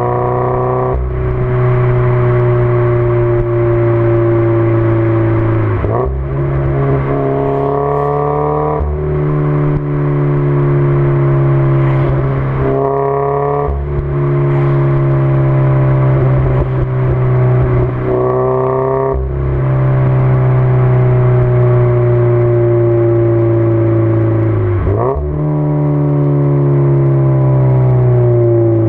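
Toyota GT86's 2.0-litre flat-four engine through a 5Zigen aftermarket exhaust, driving with the revs drifting and then changing pitch abruptly every few seconds, the way they do through gear changes.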